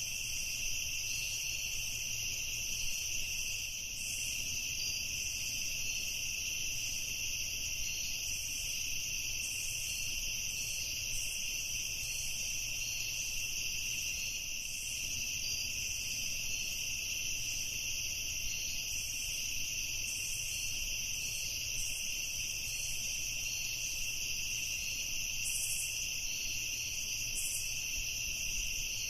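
Steady evening insect chorus: crickets trilling at several pitches at once, one of them pulsing rapidly, over a faint low hum.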